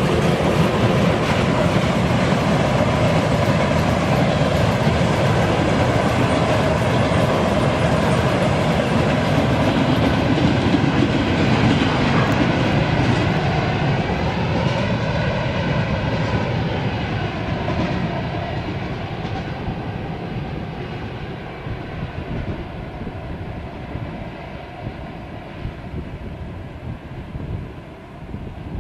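A train running past on the rails, loud and steady at first, then fading away over the second half.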